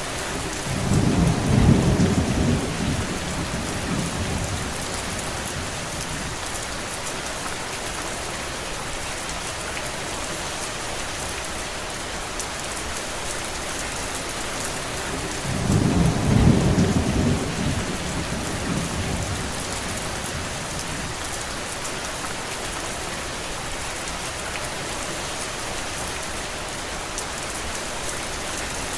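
Steady heavy rain falling. Two low rumbles lasting a few seconds each rise above the rain, about a second in and again about sixteen seconds in.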